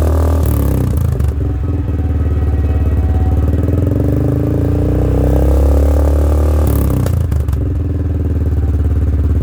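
Yamaha Wolverine 450 ATV's single-cylinder four-stroke engine running through an aftermarket hexagon slip-on muffler. The engine speed falls, rises and falls again a few times.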